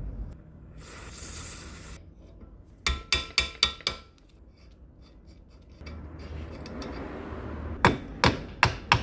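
A short hiss, then a quick run of sharp hammer taps on metal with a brief ring, about four a second. A rough scraping noise follows, and another run of taps starts near the end.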